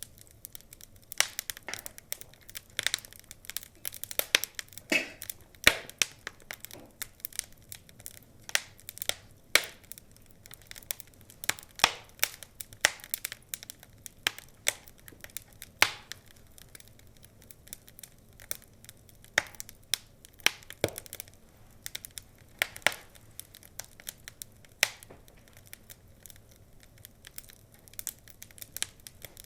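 Wood fire crackling, with irregular sharp pops and snaps of burning logs over a faint hiss, the loudest pops about 6 and 16 seconds in.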